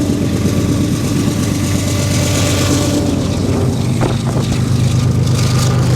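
Diesel locomotives of a freight train running at full throttle: a loud, steady engine drone with a hiss of rolling noise over it. The drone shifts slightly higher in pitch about four seconds in.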